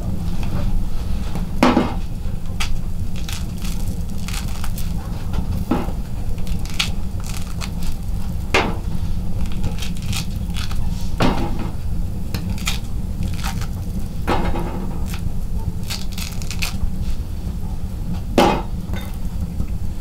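Wood-burning stove fire crackling, with scattered sharp pops over a steady low rumble.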